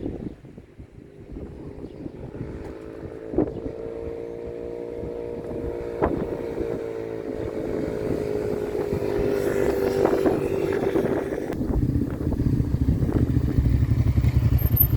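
Small petrol engine of garden equipment, a lawnmower or whipper snipper, droning steadily with its pitch easing slightly down, with a few sharp clicks. In the last few seconds a louder low rumble takes over.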